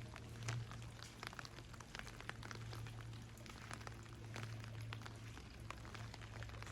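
Raindrops dripping and pattering as many small irregular ticks, over a steady low hum.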